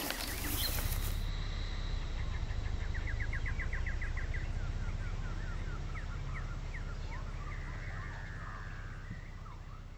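Birds chirping over a steady low rumble. A rapid trill of evenly repeated notes comes a couple of seconds in, then scattered chirps, and all of it fades toward the end.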